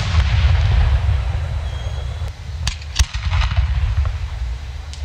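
Fireworks booming: a deep, rumbling boom at the start, then several sharp bangs about two and a half to three seconds in, the last of them the loudest.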